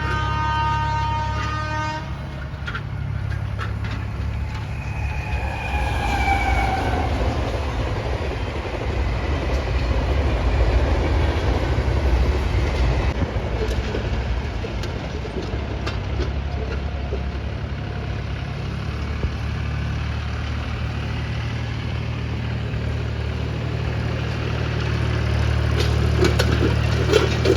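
Mahindra 265 DI tractor's diesel engine running steadily under load while pulling a harrow. A horn-like tone sounds for the first two seconds, and a falling tone follows about five seconds in.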